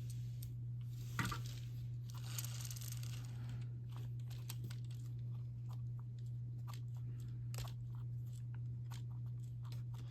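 Faint handling noise of a plastic Lego pull-back race car: a click about a second in, a short rustle, then scattered small plastic clicks and ticks, over a steady low electrical hum.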